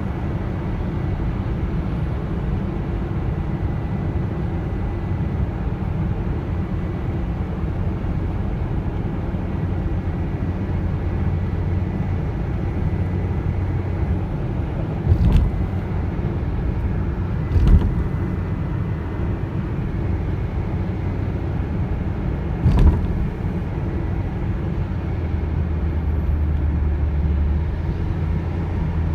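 Car driving: a steady low rumble of engine and road noise, broken by three short thumps, two close together about halfway through and one a few seconds later.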